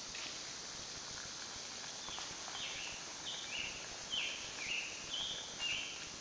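A songbird singing a run of about eight short, down-slurred whistled notes, starting about two seconds in, over the steady hiss of the woods.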